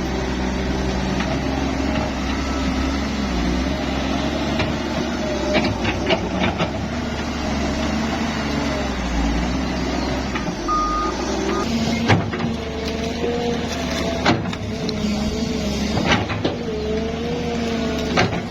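Diesel engines of heavy construction machinery running steadily, with a few sharp knocks about a third of the way in and several more in the second half.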